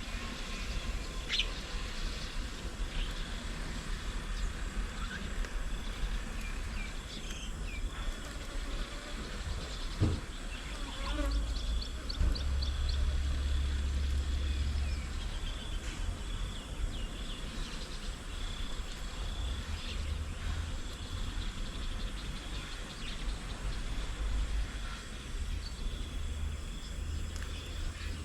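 Garden ambience: a steady high insect note with a few short bird chirps, including a quick run of notes about eleven seconds in, over a constant low rumble.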